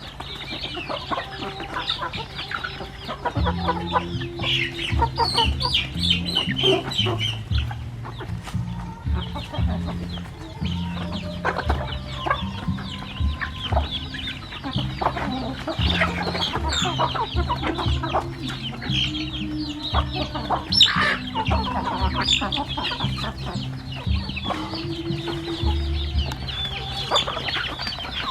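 A flock of chickens clucking continually in short calls, over low sustained tones that begin a few seconds in.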